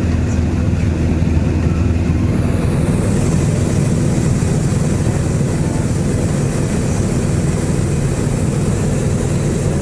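Single-engine light aircraft in cruise flight, heard from inside the cabin: a steady, loud engine and propeller drone with rushing air noise.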